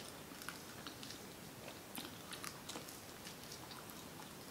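Faint chewing of hot wings and pizza, with scattered small mouth clicks and smacks.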